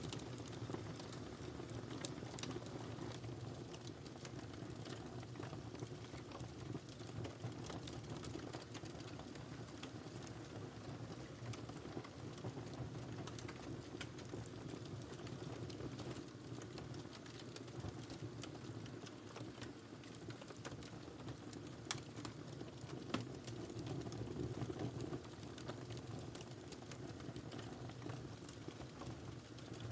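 Wood fire crackling: irregular small snaps and pops over a low, steady rumble of burning logs, with a couple of louder pops about three-quarters of the way through.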